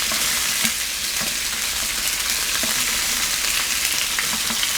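Chicken pieces frying in hot oil in a pan, a steady sizzle with a few small pops.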